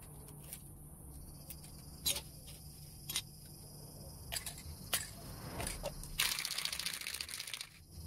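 Several sharp clicks and knocks of small parts or tools being handled, then an aerosol spray hissing for about a second and a half, starting a little after six seconds in.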